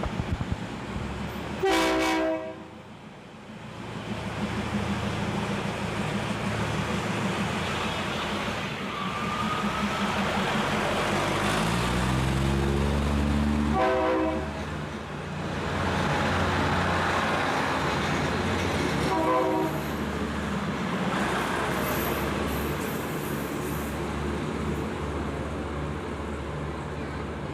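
Diesel train pulling away from a station: its engine runs throughout and rises in pitch as it revs up about eleven to fourteen seconds in. Short horn blasts sound about two seconds in, around fourteen seconds and around nineteen seconds.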